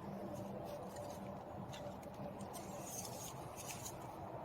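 Faint clicks and rustles of hands handling a plastic door-panel switch assembly, over a steady low hum of background noise.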